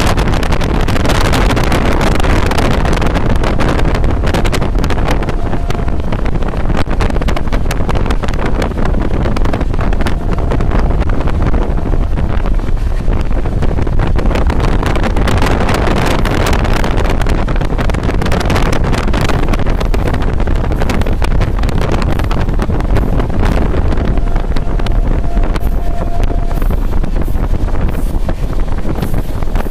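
Express passenger train running at speed, heard from an open coach doorway: a steady rumble of wheels and coach with wind buffeting the microphone.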